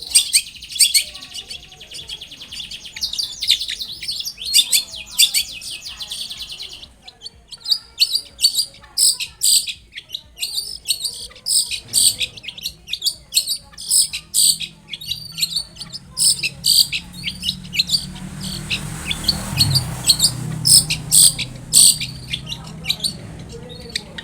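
Long-tailed shrike (cendet) singing in full voice: a fast run of sharp, chattering high notes, with a short pause about seven seconds in.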